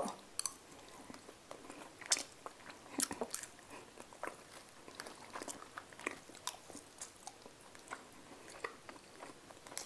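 A person chewing a mouthful of food close to a clip-on microphone: quiet, with scattered short soft clicks.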